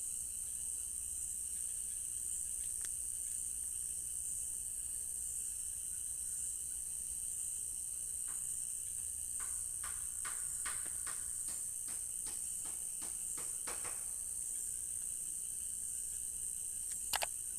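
Crickets chirring in a steady high-pitched trill. About eight seconds in, a run of about a dozen quick clicking calls sounds over it for several seconds, and one sharper click comes near the end.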